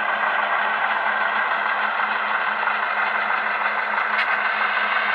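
HO scale model locomotive's DCC sound decoder playing a steady engine-running sound with a low hum under it, as the train moves. There is a short click about four seconds in.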